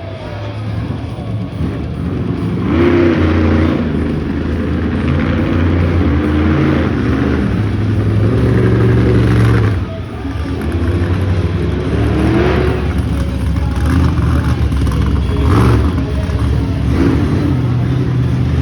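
Bone Shaker monster truck's engine revving hard during a wheelie run, its pitch surging up and falling back several times, with a short drop about ten seconds in.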